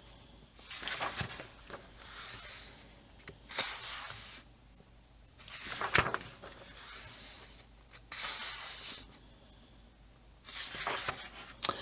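Paper pages of a paperback coloring book being turned one after another, a soft rustle every two seconds or so, about five turns in all, one with a sharp snap.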